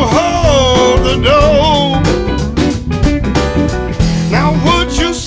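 A live band playing a blues-rock song: steady drum hits and guitar under a lead melody that bends and wavers in pitch.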